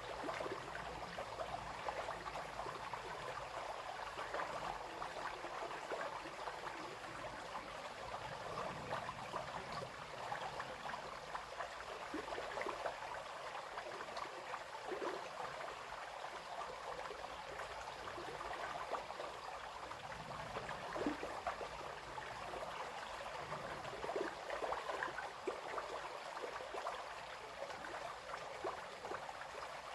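A small brook babbling and trickling over stones in a steady, continuous flow, with lots of small splashes.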